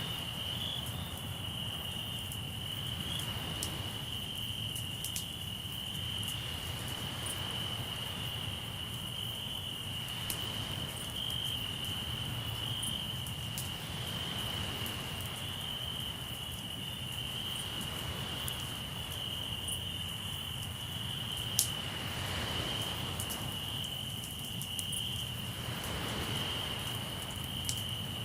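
Crickets chirping in a steady high-pitched trill, over a campfire crackling with scattered sharp pops, one louder than the rest about three quarters of the way through. Twice near the end, sea waves wash in with a soft swell of noise.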